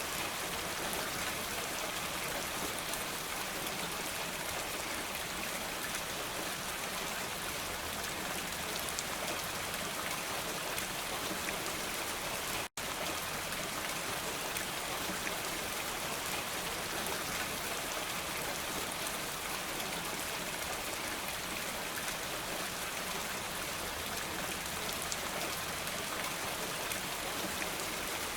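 Steady rain falling, a dense even patter. It cuts out to silence for an instant about halfway through.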